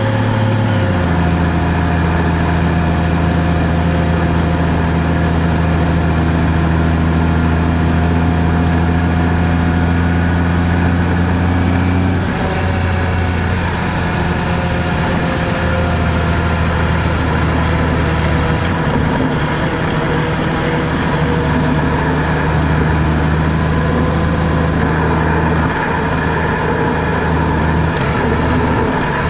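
Car on the move: steady engine hum and road noise, with the engine note changing pitch about a second in and again around twelve seconds in.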